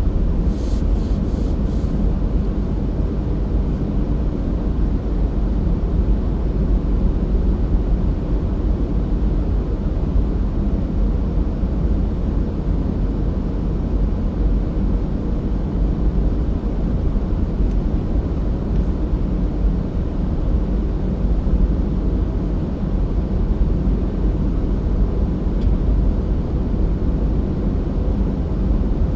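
Car driving at a steady speed: a continuous low rumble of road and tyre noise.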